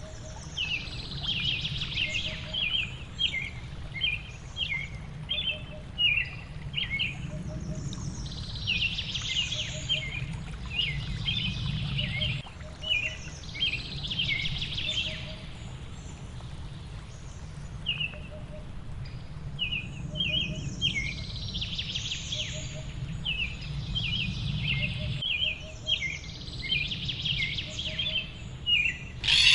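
Wild birds singing, with rapid series of short high chirps repeating over and over and a soft lower note recurring every couple of seconds. Underneath is a low, steady rushing noise that drops away twice.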